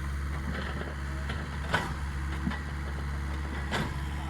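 Mini excavator's engine running steadily with a low drone. A couple of sharp clicks come through it, one a little under two seconds in and another near the end.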